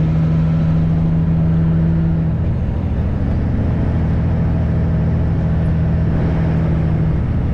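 A semi truck's diesel engine running under way, heard from inside the cab as a steady low drone. Its note shifts about two seconds in and again near the end.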